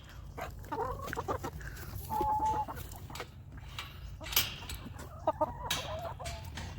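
Backyard hens clucking as they feed, with one short held note a little after two seconds and a few sharp taps in the second half.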